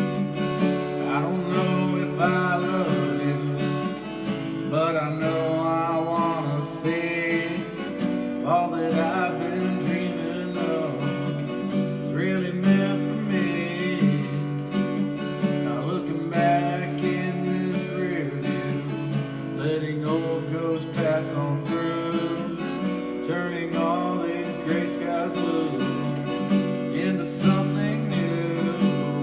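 Acoustic guitar strumming steady chords in a country-style intro, with a wavering melody line over it.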